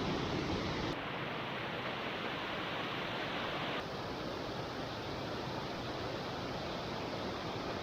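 Steady rushing noise of heavy rain and wind, which changes abruptly about a second in and again near four seconds in.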